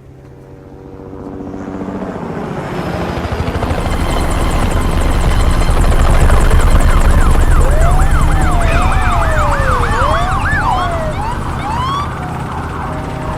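A loud low rumble swells up to a peak and then eases off. Police sirens wail over it, several at once, partway through.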